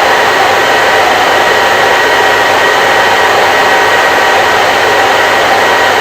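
Hair dryer running steadily: an even, unchanging rush of blown air with a faint motor whine held at one pitch.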